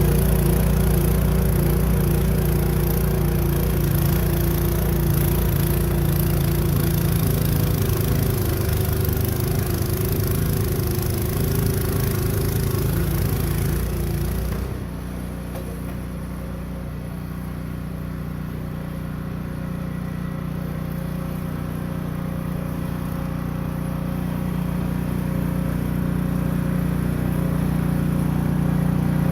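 Gas snow blower engine running steadily under a loud hiss. About halfway through, the hiss stops suddenly and the engine drops quieter, then slowly grows louder again.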